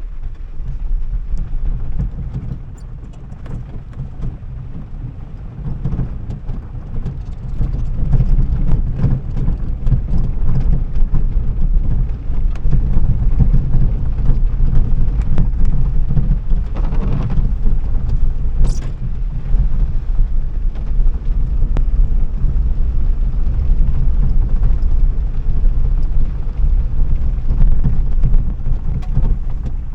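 Car being driven: a steady low rumble of engine and road noise, growing louder about eight seconds in.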